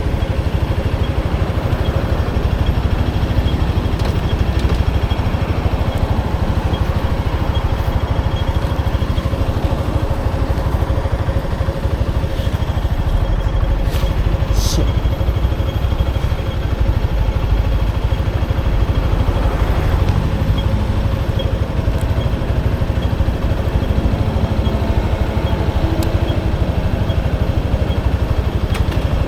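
Motorcycle engine running steadily under a constant rush of road and wind noise. Engine pitch rises briefly about twenty seconds in.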